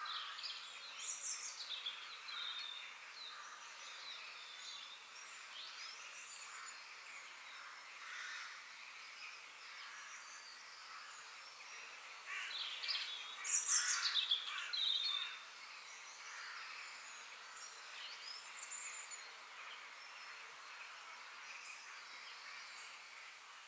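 Several birds chirping and calling over a steady background hiss. About halfway through, a louder run of quick calls sweeps down in pitch.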